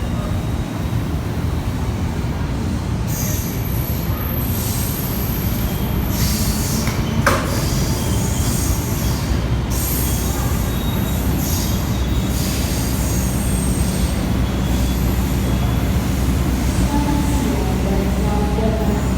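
A train running on the rails, a steady low rumble with high-pitched wheel squeal from about three to twelve seconds in, and a single sharp knock about seven seconds in.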